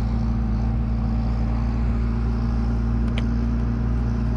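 An engine idling steadily, a constant low drone with one brief tick about three seconds in.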